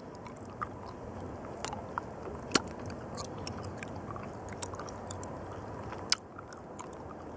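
A person chewing a chili-mango candy close to the microphone: wet mouth clicks and smacks scattered over a steady low chewing sound, the loudest clicks about two and a half seconds in and just after six seconds.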